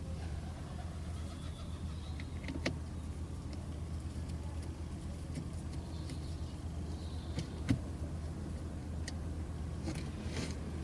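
A few scattered sharp clicks and taps from parts and a screwdriver being handled during the headlight switch fitting, over a steady low hum.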